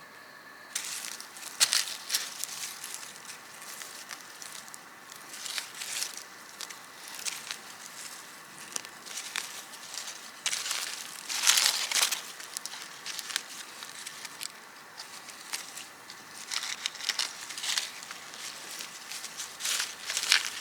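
Irregular rustling and crackling, like dry material being handled or crushed, loudest about eleven to twelve seconds in.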